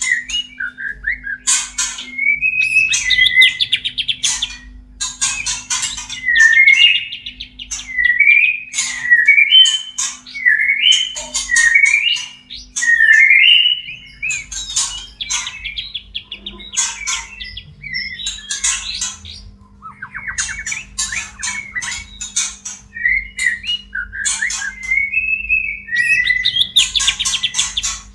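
White-rumped shama (murai batu) courtship calls: harsh rapid chattering and clicking mixed with short whistled notes that slide up and down, in repeated phrases. They are the excited calls of a male courting a female in breeding condition.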